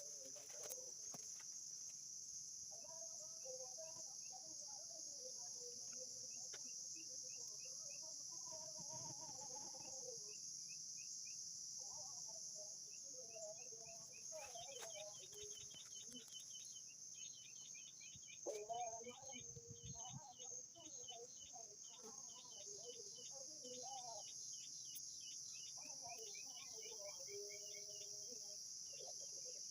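Forest ambience: a steady high-pitched drone of insects, with birds calling over it in repeated phrases of warbling notes and quick runs of short high chirps.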